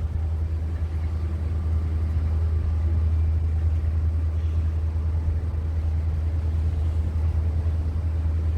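Steady low rumble of a large engine running without change in pitch or loudness.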